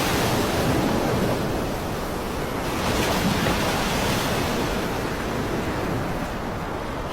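Rough sea: waves and surf surging steadily, with heavy wind noise on the microphone.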